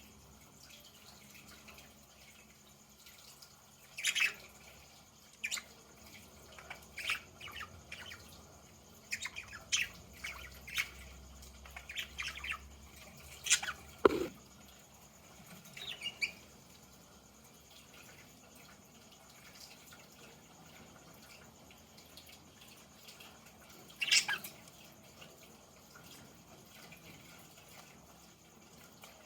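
Budgies giving short, scattered chirps and clicks, with a busy run of them in the middle and long quiet gaps between.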